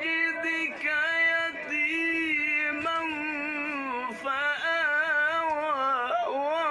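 A single voice chanting Quran recitation slowly and melodically, drawing out long held notes with wavering, ornamented turns.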